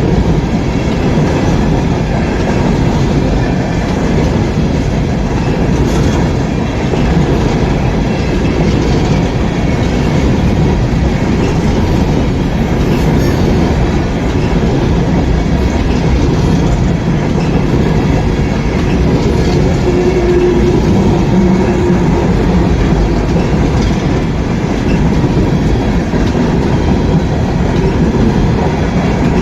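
A freight train rolling past close by: steady rumble and clatter of the cars' wheels on the rails, with a brief faint wheel squeal about two-thirds of the way through.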